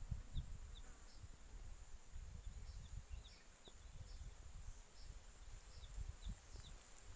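Outdoor ambience of insects: a steady high-pitched drone with short chirps repeating about every half second, over an uneven low rumble.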